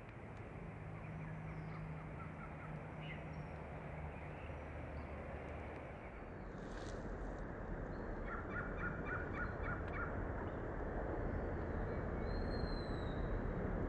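Steady low background rumble with faint bird chirps over it, including a quick run of repeated chirps about eight seconds in.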